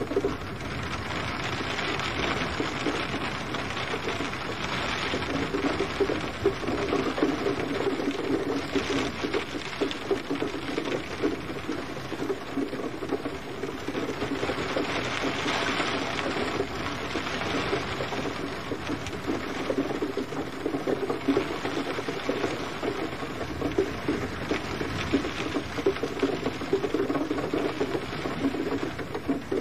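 Steady gentle rain: a dense patter of drops over a soft hiss that swells and eases a little every few seconds.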